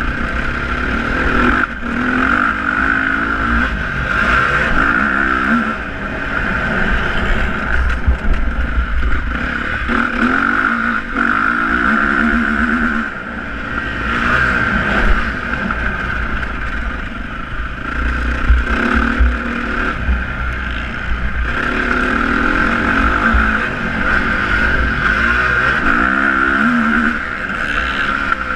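Motocross dirt bike engines running hard, the revs climbing and dropping again and again as the bikes accelerate and shift, with heavy wind rumble on the microphone.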